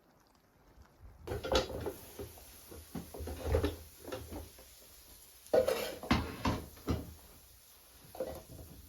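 Cookware and utensils being handled: an irregular run of clinks, knocks and clatters that starts about a second in, the loudest knock about halfway through.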